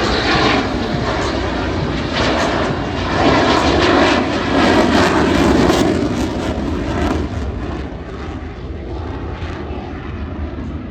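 F-16 Fighting Falcon jet making a pass, its engine noise swelling to a peak around the middle and then fading away.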